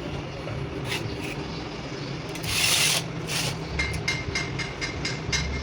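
Hand work on metal clutch parts: a loud rasping scrape about two and a half seconds in, a shorter one after it, then light metal clicks with a faint ringing, over a steady low hum.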